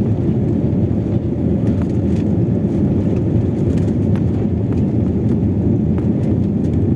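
Airliner taking off: a steady, loud low rumble of engines and rushing air, with faint rattles through it.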